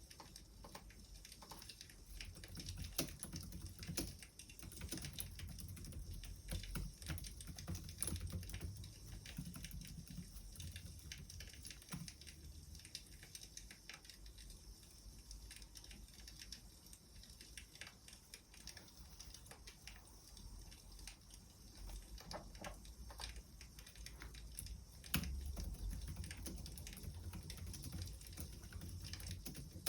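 Wood fire crackling: faint, irregular small pops and snaps over a low rumble.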